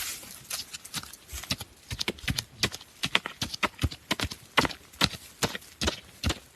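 Rapid, uneven sharp knocks on bamboo, a few strikes a second, coming more often as it goes on.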